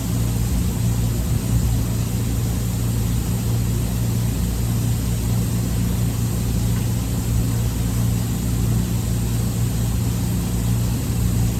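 Steady low machinery hum with several constant tones, unchanging throughout.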